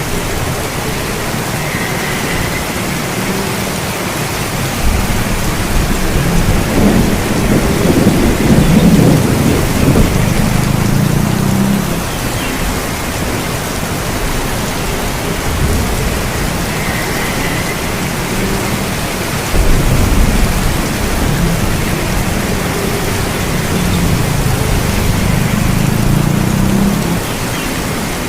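Steady rain with thunder rumbling through it twice: a low rumble builds about five seconds in and dies away, and a second starts suddenly past the middle and swells again near the end.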